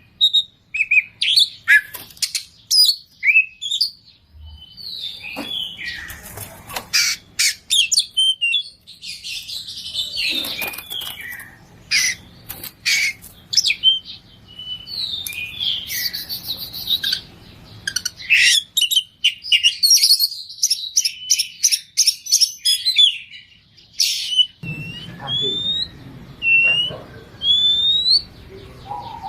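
Oriental magpie-robin (kacer) singing a loud, varied song packed with mimicked notes: rapid whistles, trills and sharp clicky calls. Near the end the song changes to short rising whistles repeated about once a second.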